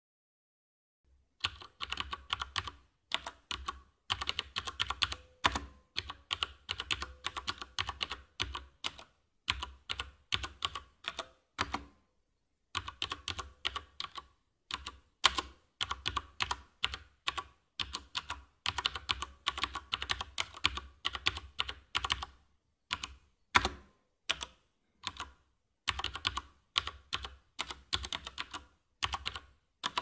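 Typing on a mechanical keyboard: fast runs of sharp key clicks with short pauses between the runs, starting about a second and a half in.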